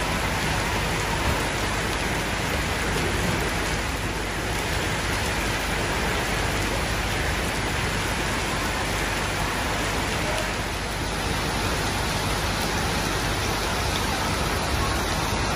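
Heavy rain pouring down on a flooded street, a dense, steady hiss of rain on standing water.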